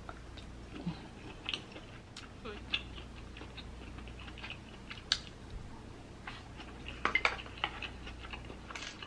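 A person chewing food close to the microphone: soft, irregular mouth clicks and smacks, with a quick run of them about seven seconds in.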